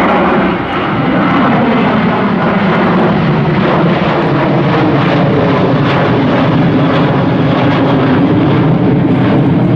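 Jet airliner's engines running loud and steady.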